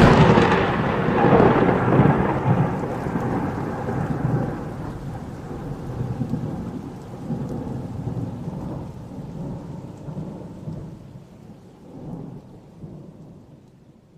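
Thunderclap: a sharp crack at the start, then a long rolling rumble that slowly fades away.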